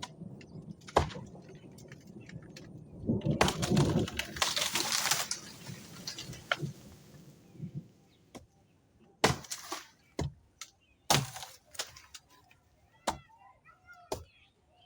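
Axe chopping into a moringa trunk: a single sharp chop, then a few seconds of crackling and rustling as wood and branches break, then three more sharp chops about two seconds apart. Faint bird chirps near the end.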